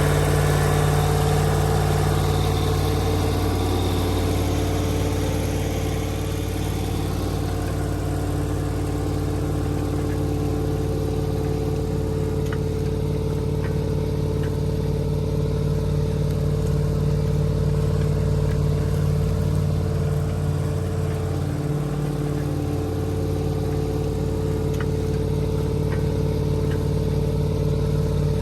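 Massey Ferguson 4840's V8 diesel engine running steadily under load, pulling a cultivator, with a brief dip in engine note about two-thirds of the way in and faint ticks and clatter.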